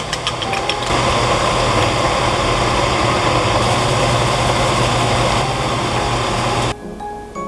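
A small electric motor, likely a kitchen appliance, running steadily with a low hum, cutting off suddenly near the end.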